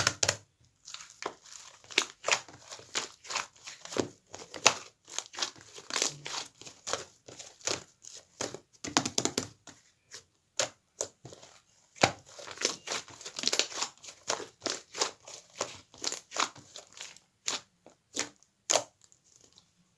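Slime being squished and kneaded by hand, making dense, irregular sticky crackles and pops with short pauses between handfuls.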